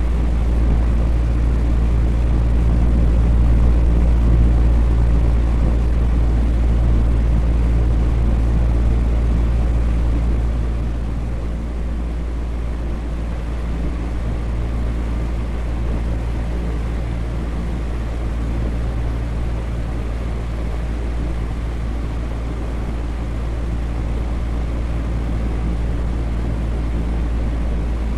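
Electric fan running steadily: an even airy whoosh over a low motor hum, easing a little lower about eleven seconds in.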